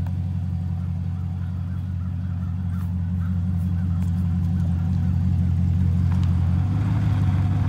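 Chevrolet Camaro SS's 6.2-litre LT1 V8 running at low revs, pulling the car slowly up a steep driveway. The engine gets louder and fuller near the end as more throttle is given.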